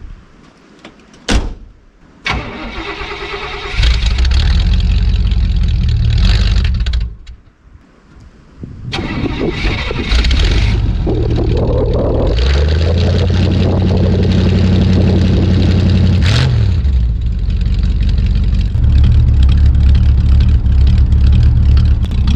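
1976 Chevrolet K5 Blazer's 305 V8 with a Quadrajet carburettor cold-starting: the starter cranks briefly, the engine catches and runs for about three seconds, then dies. It is cranked again, catches and keeps running, its speed stepping up and back down a few times.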